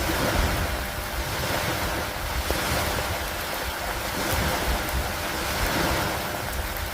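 Steady rain falling with wind, a low rumble under it swelling and easing every couple of seconds.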